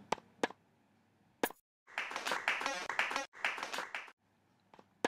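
A few sharp clicks, then about two seconds of rustling, clattering noise with a fast ticking in the middle.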